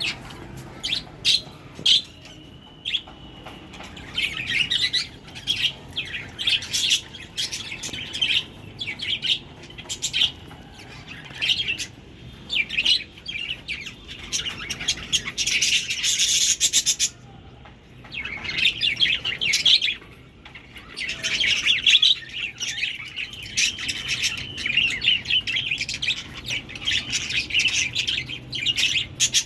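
Budgerigars chirping and warbling continuously, many short rapid calls with a few longer steady notes.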